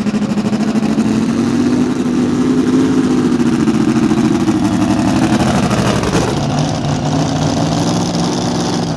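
A mini rod pulling tractor's engine runs hard at high revs, pulling the sled down the track, its pitch rising slightly and then sagging under load. About six seconds in the note drops to a lower, steadier rumble as the throttle comes off.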